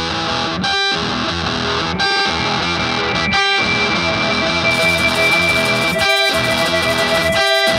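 Punk/thrash rock music: distorted electric guitar holding chords that break off briefly about every second and a half. A high steady tone joins about two seconds in, and a lower one about four seconds in.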